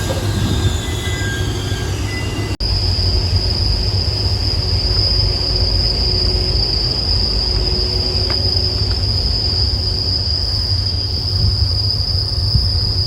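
Seibu Haijima Line train running over a level crossing: a steady rumble of wheels on the rails, with the crossing alarm's repeating tones in the first couple of seconds. After a brief cut about two and a half seconds in, a steady high-pitched wheel squeal rides over the rumble.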